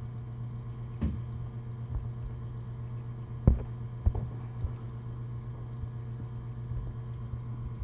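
Small electric pump running with a steady low hum as it pumps sewage water out, broken by a few short knocks, the loudest about three and a half seconds in.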